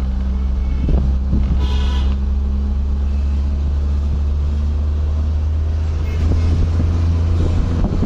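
An engine running steadily with a deep, even drone. A brief high tone sounds about two seconds in.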